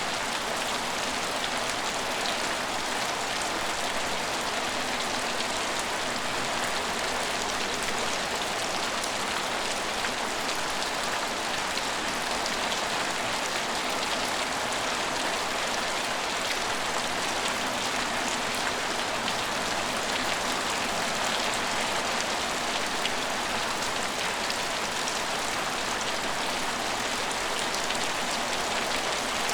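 Steady rain falling on hard surfaces: an even hiss of rainfall with scattered drop ticks.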